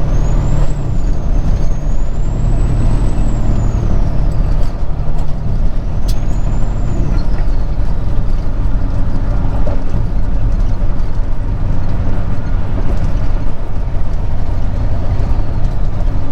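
Semi truck's diesel engine and road noise heard from inside the cab while driving, a steady drone, with a faint high whine that rises and falls in the first few seconds.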